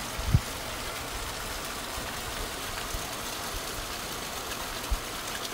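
Heavy rain pouring steadily, a dense even hiss, with a few brief low thumps.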